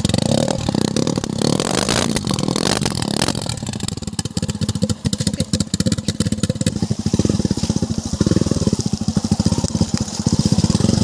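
Motorcycle engine running as the bike is ridden, its steady, rapid firing pulses clearest midway, with a few sharp rattles or clatters about two to three seconds in.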